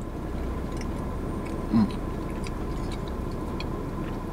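A person chewing a mouthful of Jamaican patty in spiced bun, with faint mouth clicks, over a steady low hum in a car cabin. A brief hummed 'mm' comes a little under two seconds in.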